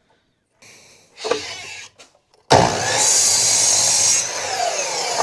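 Power saw cutting through wood: after a few brief handling noises, the saw starts suddenly about two and a half seconds in and runs loudly and steadily, its pitch sliding as the blade works through the board.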